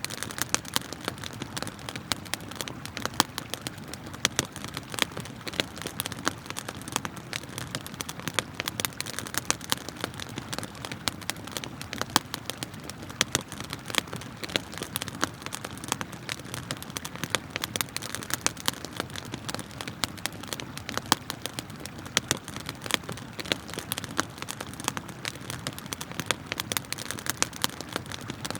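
Wood fire crackling and popping with many sharp snaps, over a steady rush of flowing river water.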